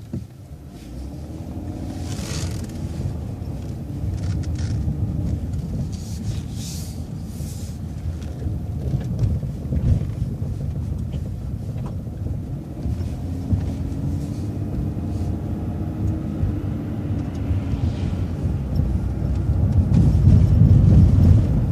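A transit bus's engine and drivetrain rumbling, heard on board as the bus pulls away from a stop and drives on. The engine note climbs and falls back once about two-thirds of the way through, and the rumble grows louder near the end.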